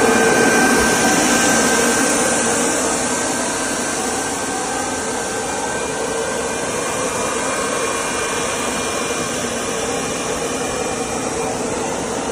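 Plastic hose extrusion line machinery running steadily, a constant noisy hum with a couple of faint steady high tones, slightly louder in the first couple of seconds.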